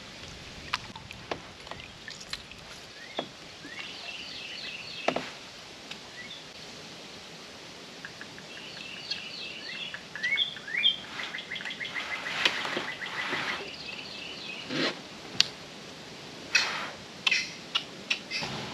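Wild birds singing in series of quick high chirps and trills, with several short knocks and swishes from the boat and gear mixed in.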